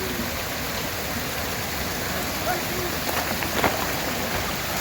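Heavy rain falling steadily, with a few sharper taps a little past three seconds in.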